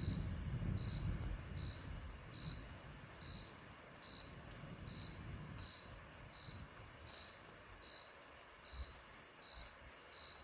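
Distant thunder rumbling and dying away over the first few seconds, under a cricket chirping steadily, a short high-pitched chirp about every 0.8 seconds.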